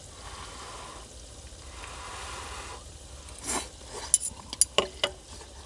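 Food sizzling softly in a pan, then a quick run of sharp metallic clinks, utensils knocking against the pan or dish, in the second half.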